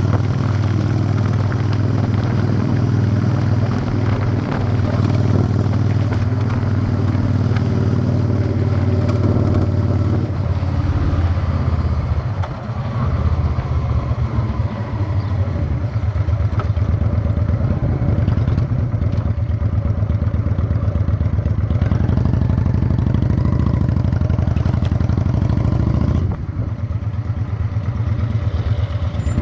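Honda Shadow 600 chopper's V-twin engine running under way, with the throttle easing off briefly about twelve seconds in and again near the end.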